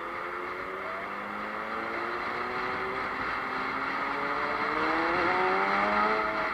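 A road vehicle's engine accelerating, its pitch rising steadily over several seconds above a steady road-noise hiss and getting gradually louder, then falling back at the very end.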